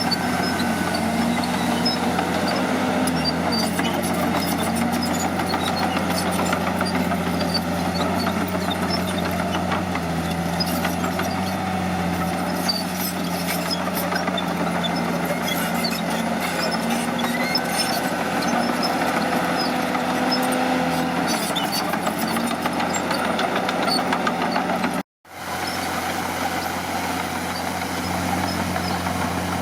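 Heavy bulldozer diesel engine running steadily under work, with a deep, even drone. The sound cuts out abruptly for a moment near the end, then resumes.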